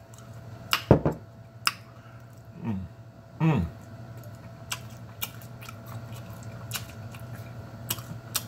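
A person chewing bacon-wrapped pork loin and jalapeño close to the microphone, with sharp mouth clicks and smacks scattered throughout. Two brief hummed vocal sounds come about three seconds in.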